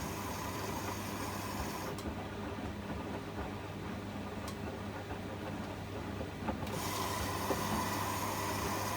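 Privileg 804 washing machine running: a steady low hum under a high hiss. The hiss drops out about two seconds in and comes back near the end, with a faint click or two while it is gone.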